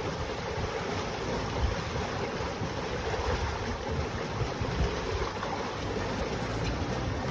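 Wind buffeting the microphone over the steady wash of water along the hull of a sailboat under sail, with no engine running.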